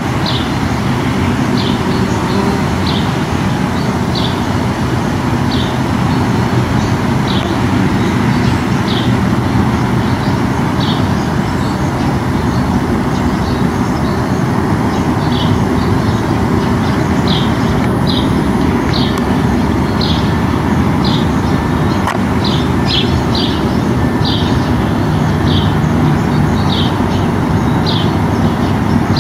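A small bird chirping short, high notes about once a second, sometimes two in quick succession, over a steady low rumble like distant traffic or machinery that is the loudest sound throughout.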